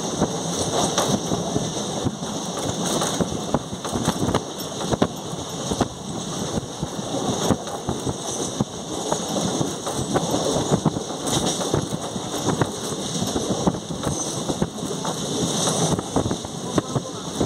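Train crossing a bridge, heard from aboard: a steady, dense rumble and rattle of the wheels, with many sharp clicks throughout.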